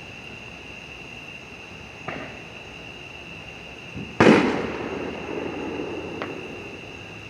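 Thunder from a nearby lightning strike: a sharp crack about four seconds in, followed by about two seconds of rumble. Fainter pops of fireworks come about two seconds in and again near six seconds, over a steady chirring of crickets.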